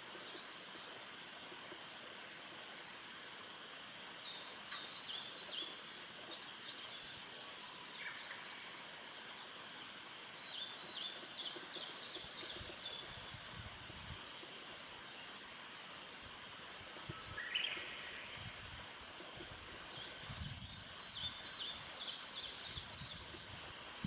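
Birds calling: three bouts of quick, repeated descending notes, with a few short high notes between them, over a steady background hiss.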